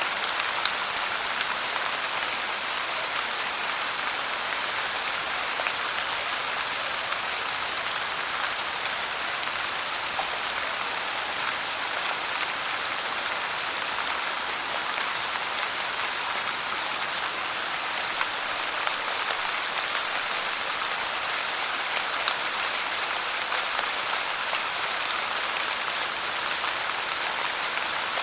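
Steady pouring rain: an even hiss of falling water with scattered drop ticks, unchanging throughout.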